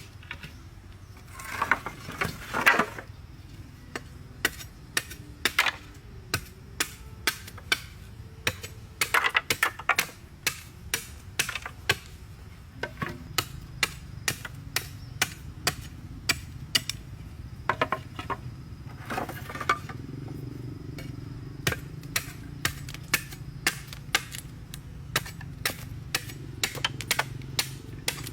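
Repeated sharp knocks of a hand tool striking material during building work, about one to two blows a second, broken by a few short scraping stretches.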